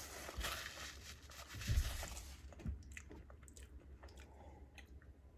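Close-miked chewing and crunching of food, a dense crackle for the first couple of seconds, then scattered small mouth clicks.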